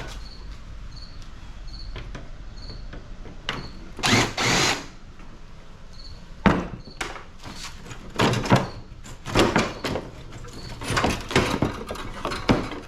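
Sheet-metal casing of a window air-conditioning unit being pulled apart and handled: scattered knocks, clanks and scrapes, with a louder burst of noise about four seconds in and a run of knocks in the second half, over a low steady hum.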